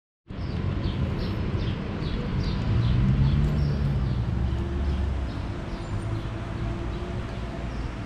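A bird chirping over and over, short falling chirps about two or three a second that fade after the first half, over a low outdoor rumble that swells about three seconds in and then eases.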